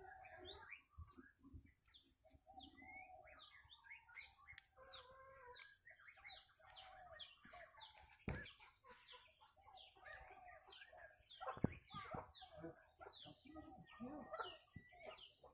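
Faint, rapid chirping of a pair of caged murai songbirds: many short downward-sweeping calls one after another, with a couple of sharp knocks about eight and twelve seconds in.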